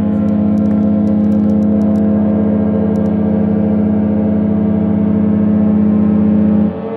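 Ships' horns sounding together in salute: a deep horn held in one long steady blast over a higher-pitched horn. The deep horn cuts off near the end while the higher one keeps sounding.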